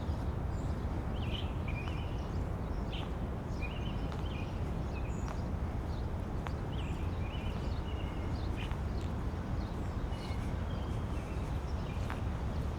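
Small birds chirping in short, repeated calls over a steady low rumble of wind on the microphones, with occasional light footsteps on pavement.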